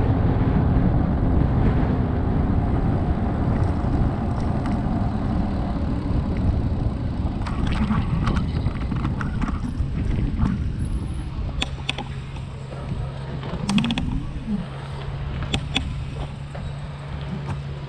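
Wind buffeting the microphone over a low rolling rumble while riding an e-bike. A steady low hum comes in about two-thirds of the way through, with a few sharp clicks.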